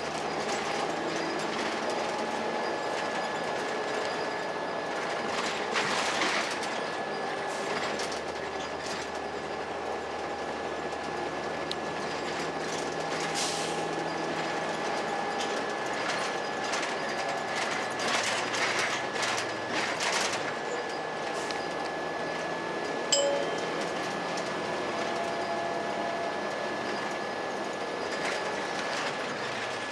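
2002 Blue Bird CS transit bus running with its Cummins ISC diesel engine and Allison B400R automatic transmission, a steady high tone over the engine and scattered rattles through the ride, with a sharp click about two-thirds of the way through.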